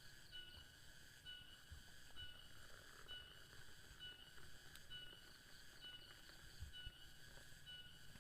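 Faint forest ambience: a short, high chirp repeating steadily about once every second over a low hiss.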